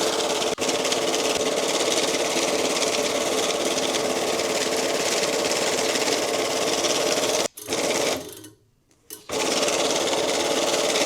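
Banknote counting machine running steadily as bills feed through it. It stops briefly about seven and a half seconds in, and again for about a second shortly after, then starts up again.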